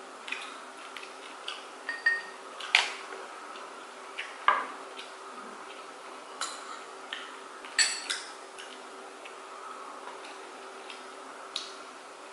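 Eating utensils clinking and tapping against plates and bowls during a meal, in scattered irregular clicks, a few with a short ring. The loudest are near three, four and a half, and eight seconds in. A faint steady hum runs underneath.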